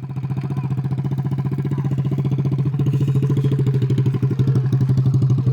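Small 50cc dirt bike engine running at a low, steady throttle, its pitch unchanging and its sound gradually getting louder.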